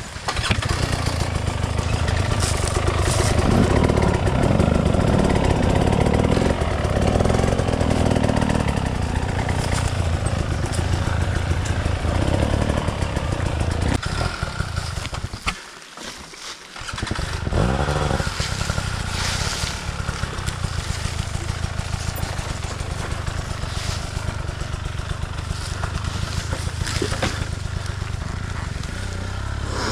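Enduro dirt bike engine running hard, with a pulsing exhaust note. About halfway through it cuts out for a moment, then starts again with a rising rev and keeps running.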